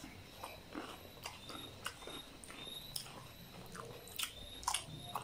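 Close-up mouth sounds of people biting and chewing raw green vegetables: irregular wet smacks and crisp crunches, several a second, sharpest near the end.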